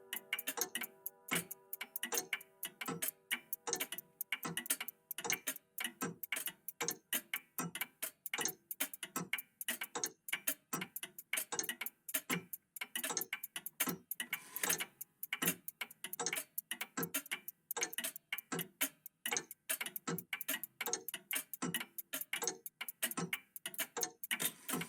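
Old mechanical clocks ticking together, with overlapping ticks in an uneven rhythm of several per second. A lingering ringing tone fades out in the first few seconds.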